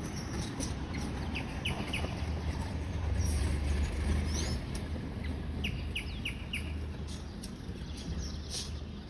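Small birds chirping: short, quick falling chirps in runs of three or four, over a steady low rumble.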